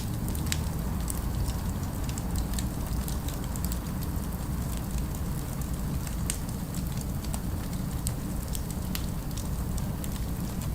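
Fireplace crackling, scattered sharp pops and snaps over a steady low rumble of city ambience.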